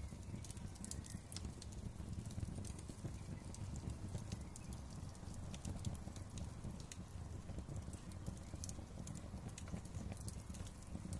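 Wood fire crackling in a fireplace: many irregular sharp pops and snaps, several a second, over a low steady rumble of the flames.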